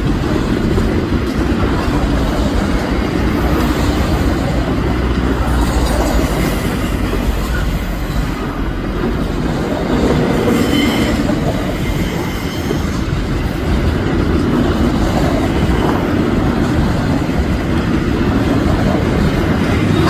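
Freight train wagons rolling past, a steady rumble of steel wheels on rail with clickety-clack over the rail joints and a faint wheel squeal about halfway through.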